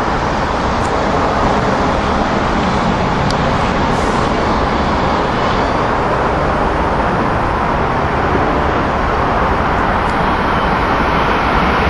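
Steady rushing rumble of an Amtrak Keystone push-pull train on the tracks, its wheels running on the rails.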